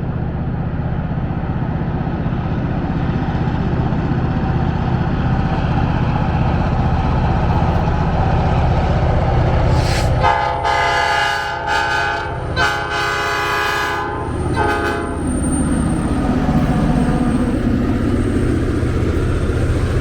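Diesel locomotive running with a steady low rumble; about halfway its air horn sounds two long blasts and a short one, then the engine rumble continues.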